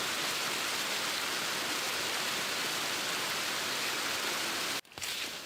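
Steady, even rushing noise with no pitch or rhythm, which cuts off abruptly near the end.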